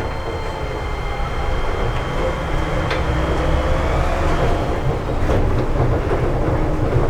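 Seibu 8500-series Leo Liner running, heard from inside the car: the low rumble of the car under way, with the thin whine of its Hitachi IGBT-VVVF inverter drive. A faint tone rises slowly as the car gathers speed, and the sound grows gradually louder.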